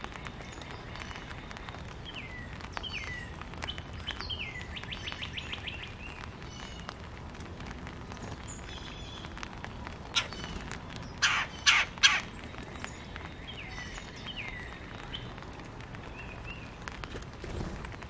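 Backyard songbirds singing: clear whistled notes that slur downward, a quick trill of repeated notes, and three loud, harsh calls in quick succession about eleven to twelve seconds in.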